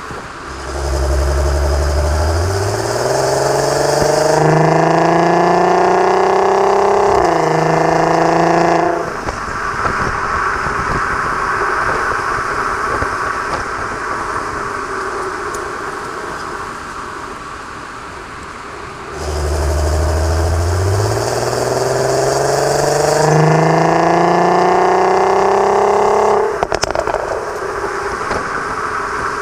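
The 3.6 VR6 engine and valved exhaust of an Audi TT Mk2 pulling hard twice, its note climbing for several seconds each time before the throttle is lifted. Between and after the pulls there is steady road and tyre noise.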